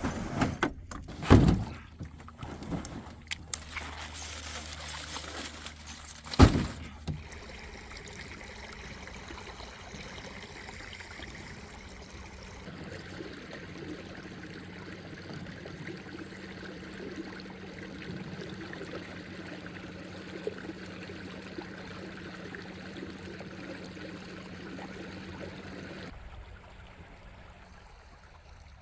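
Water sloshing and trickling, with two sharp knocks, one about a second and a half in and one about six and a half seconds in.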